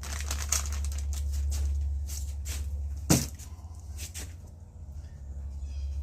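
Wet concrete being pressed and worked by hand around drain holes over wire mesh, with short scraping and rubbing strokes and a sharp knock about three seconds in. A steady low hum runs underneath.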